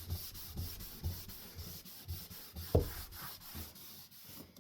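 Cleaning wipe rubbed back and forth over a cane ceiling-fan blade in regular scrubbing strokes, about two a second, that stop just before the end.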